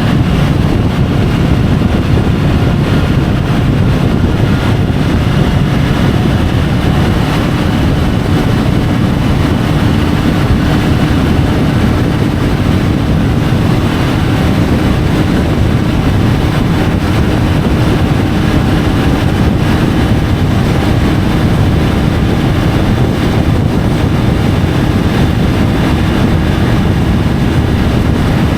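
Triumph Tiger 850 Sport's three-cylinder engine running steadily at cruising speed, mixed with wind rush and road noise on a bike-mounted camera's microphone.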